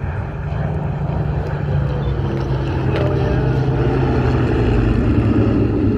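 B-17 Flying Fortress's four Wright Cyclone radial piston engines running in a steady, deep drone as the bomber flies by, getting louder.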